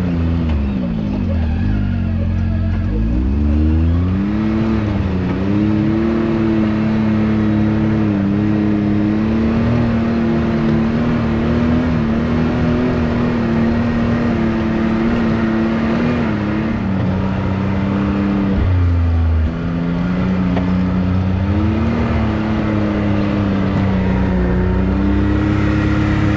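Can-Am Maverick X3's turbocharged three-cylinder engine running under load off-road, its pitch rising and falling as the throttle is worked, and dropping off briefly twice when the throttle is let off.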